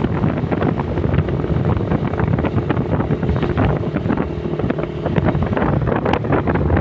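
Motorcycle engine running at a steady cruise, a low hum under wind rushing over the microphone.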